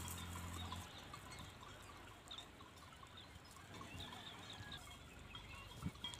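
Faint bird calls: short, scattered chirps over a quiet outdoor background, with a low hum that stops about a second in.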